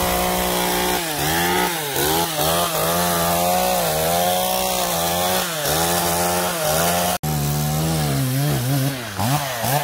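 Chainsaw cutting through a tree trunk, its engine pitch sagging under load and rising again over and over as the cut goes on. A brief break about seven seconds in.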